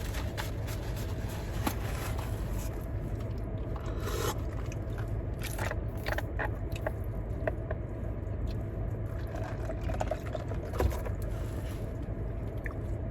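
Fried chicken being eaten: irregular crunching, biting and chewing, with scattered scrapes and rustles, over a steady low hum.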